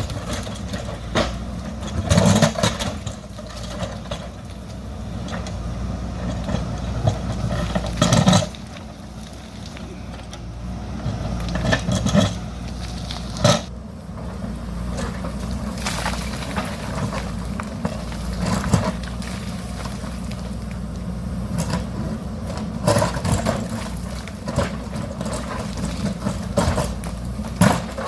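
JCB backhoe loader's diesel engine running steadily under load, with sharp knocks and scrapes every few seconds as the bucket digs into rock.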